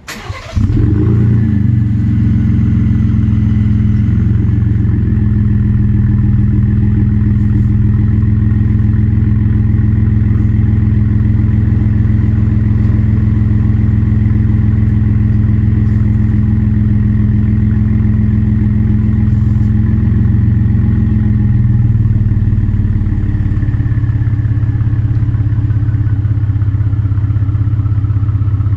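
2017 Ford F-150's 3.5L EcoBoost twin-turbo V6 through a Pypes 4-inch catback exhaust, cranking and catching right at the start, then running at a loud, steady idle. About 22 seconds in the idle settles slightly lower and stays steady.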